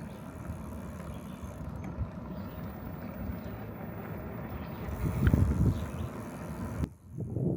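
Wind rumbling on the microphone of a moving bicycle, a steady low noise that swells briefly about five seconds in. It cuts off abruptly near the end, where a few short low bumps follow.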